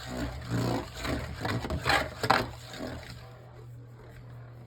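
A Beyblade Burst top (Viper Hydrax) spinning and scraping across a plastic stadium floor, clattering against the walls with a few sharp knocks, then settling into a quieter spin after about three seconds.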